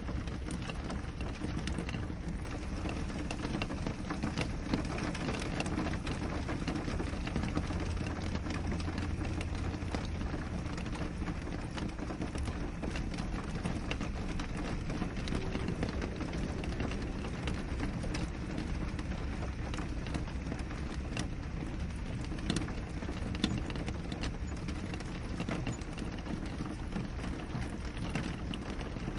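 Steady rain falling on a window: an even hiss with a dense patter of individual drop ticks, a few louder drops standing out.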